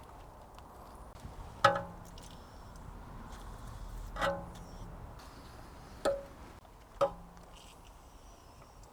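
Metal tools striking metal four times, each a sharp clink that rings briefly, spaced irregularly a second or two apart.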